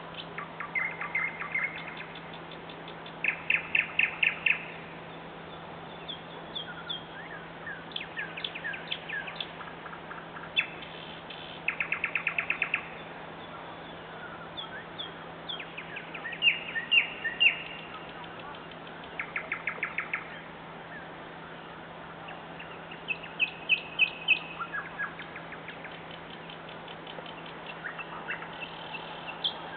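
Nightingale singing: phrases of rapid repeated notes and trills, each about a second long, with short pauses between them.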